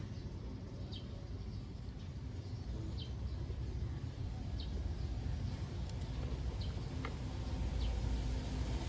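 A bird chirping repeatedly: short high chirps about every second and a half, over a steady low rumble that grows slightly louder near the end.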